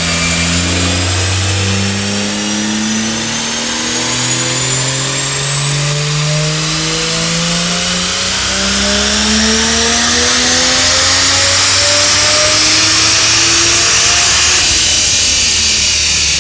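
BMW 335i's N54 turbocharged inline-six pulling hard through the gears, its engine note climbing in pitch and dropping back at each upshift. A high whine rises steadily underneath and falls away near the end.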